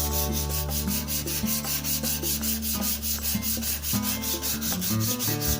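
The cast-iron sole of a Sargent 409C hand plane being lapped by hand on 150-grit sandpaper over a flat marble slab: a continuous gritty rubbing and scraping as the plane is pushed back and forth to flatten the sole.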